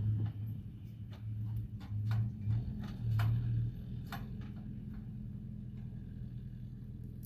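A steady low mechanical hum, like an engine running, with irregular sharp clicks and knocks over it during the first few seconds.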